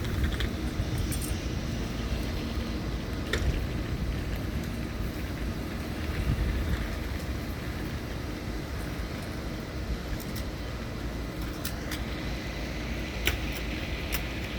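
DB class 111 electric locomotive with its train moving through the station: a steady low rumble with scattered sharp clicks and knocks.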